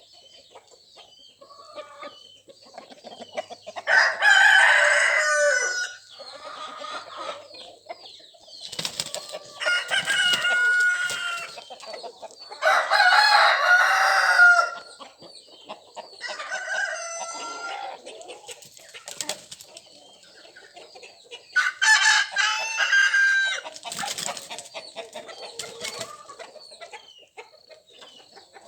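Desi roosters crowing repeatedly, each crow lasting a second or two, with hens clucking in between.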